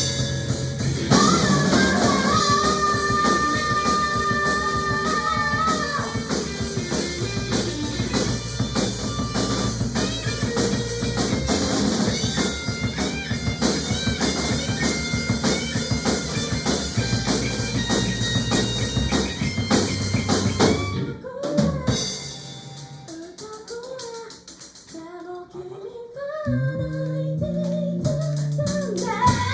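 Band music with a full drum kit and singing. About 21 s in, the drums drop out for a quieter stretch with a lone gliding melodic line, and the full band comes back in a few seconds before the end.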